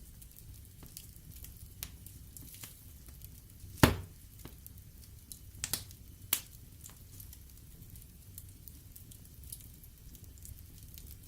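Logs burning in a fireplace: a low steady rumble of flame with scattered small crackles, one sharp loud pop about four seconds in and a few smaller pops a couple of seconds later.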